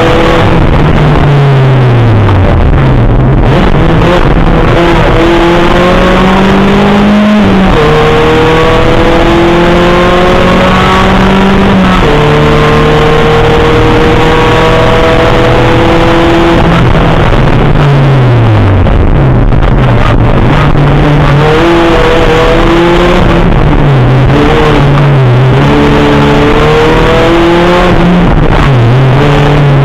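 VW Golf GTI race car's engine heard from inside the cabin, revving hard through long pulls that rise in pitch and then drop off sharply when the driver lifts, about seven seconds in and again around seventeen seconds. Near the end come quicker rises and falls as it is driven between the tyre markers, over a steady loud road and wind rush.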